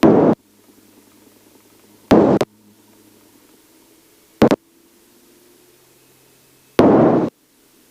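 Aviation headset intercom opening briefly four times, each time letting through a short burst of rushing cockpit noise that cuts off abruptly, with a faint low hum between the bursts.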